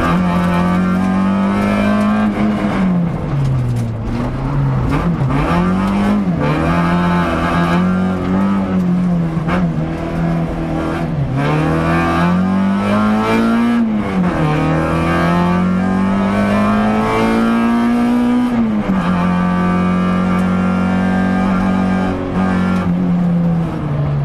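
Peugeot 106 rally car's four-cylinder engine at full effort, heard from inside the cabin: the engine note climbs and then drops again and again as the driver shifts gears and lifts off, with a steadier stretch near the end.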